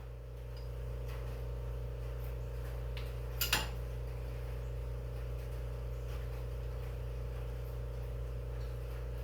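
Wrenches working a fitting on an engine's oil drain hose: a few light metal ticks and a sharp double clink about three and a half seconds in, over a steady low hum.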